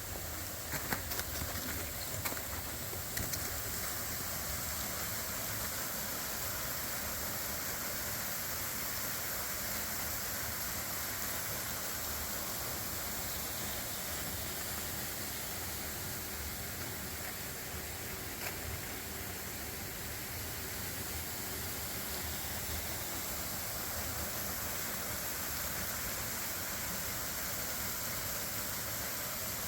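Waterfall running: a steady rush of falling water, with a few small clicks in the first few seconds.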